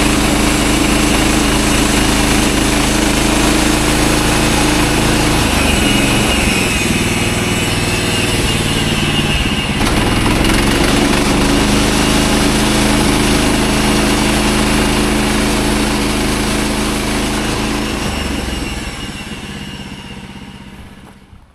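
Gasoline engine of a manual band sawmill running steadily at speed. For a few seconds in the middle its note wavers and breaks up, then steadies. Near the end it is shut off and winds down to a stop.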